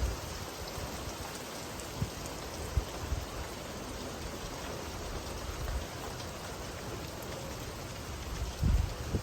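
Steady rain falling, an even hiss of drops, with a few brief low thumps about two seconds in and again near the end.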